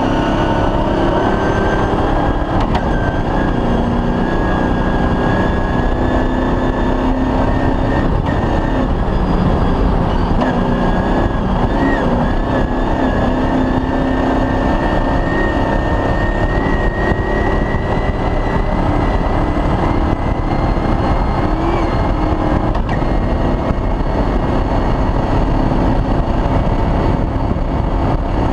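Off-road rally vehicle running hard on a special stage: steady loud engine and terrain noise, with a thin high whine that slowly climbs in pitch as it drives on.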